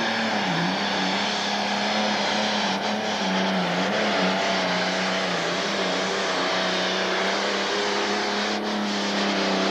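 Pro stock pulling tractor's turbocharged diesel engine running hard at high revs under load during a pull, its pitch holding nearly steady with brief small dips.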